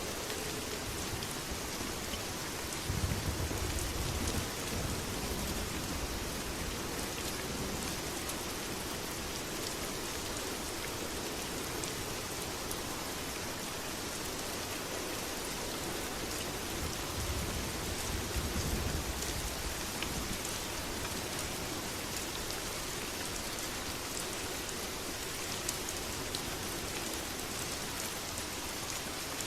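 Steady heavy rain falling on surfaces, with two low rolls of thunder: one about three seconds in and another about seventeen seconds in.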